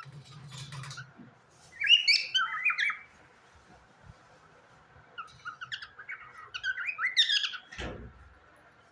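Pet parrot chirping and warbling in two bursts of quick, wavering notes, the first about two seconds in and a longer one from about five seconds.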